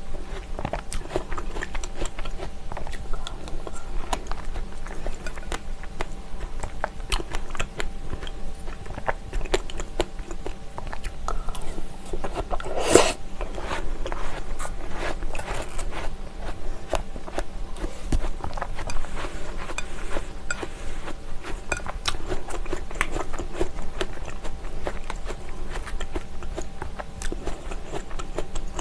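Close-miked eating sounds of fresh strawberries and apple pieces in plain yogurt: wet chewing with small crunches and smacks throughout, and one louder crunch near the middle.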